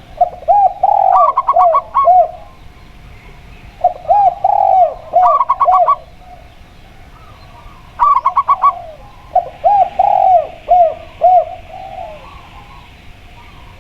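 Zebra dove and spotted dove cooing in turn and overlapping, in three bouts of song. A quicker, higher run of staccato notes mixes with a lower series of arched coos.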